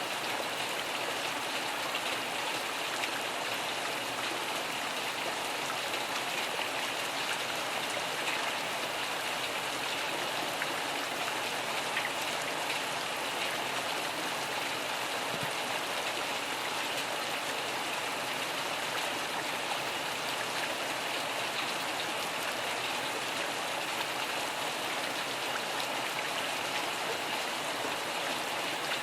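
Steady rain falling, an even hiss of drops with no change or thunderclap in it.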